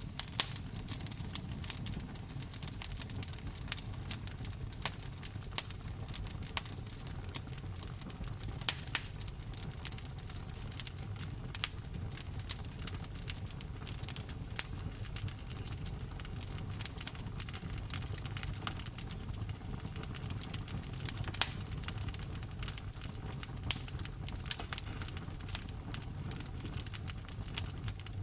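Wood fire burning in a fireplace: frequent sharp crackles and pops at irregular times over a steady low rumble of the flames.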